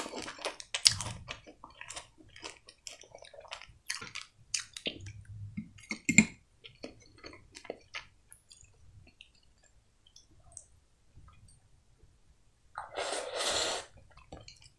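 Close-up chewing of soft, wet stewed eggplant, with small mouth clicks and smacks and a few sharp clicks of a metal fork in a glass jar. The chewing pauses for a few seconds, and then comes a breathy rush lasting about a second and a half near the end.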